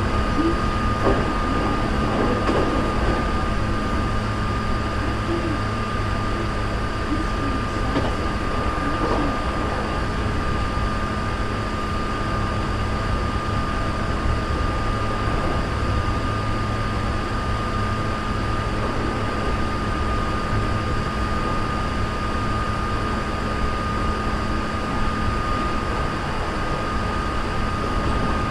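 Running noise inside a Hankyu 3300 series electric train car travelling at steady speed between stations: the rumble of wheels on rail with a steady high whine.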